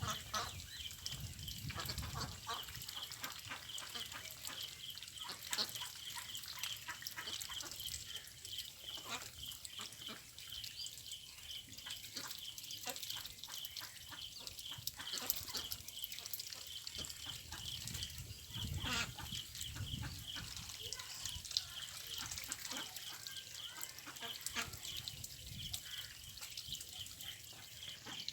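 Ducks quacking and calling on and off, with scattered short clicks and splashes, over a steady, fast, even high-pitched pulsing in the background.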